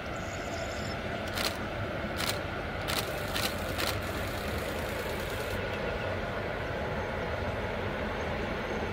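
Locomotive-hauled passenger train running across a viaduct at a distance: a steady noise of engine and wheels. Five sharp clicks stand out between about one and four seconds in.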